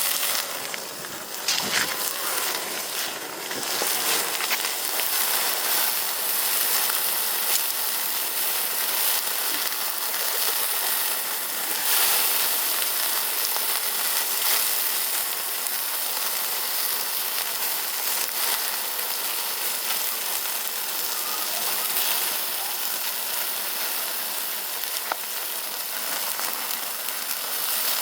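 Meat sizzling steadily on a grill over a wood fire that is burning very hot, with a few faint pops.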